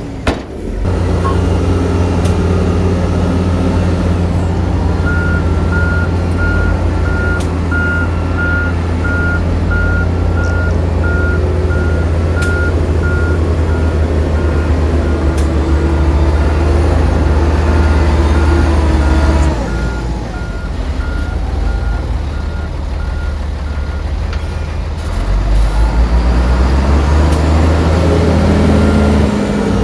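A heavy diesel engine of earthmoving machinery runs steadily while a reversing alarm beeps in a regular series. The engine eases off a little past halfway and revs up again near the end.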